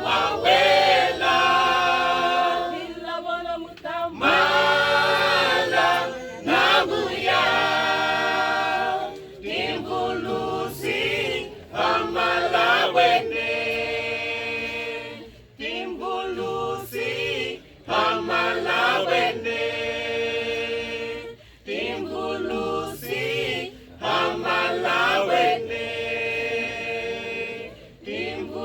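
A youth choir singing a cappella in harmony, in phrases of a few seconds with short breaths between them.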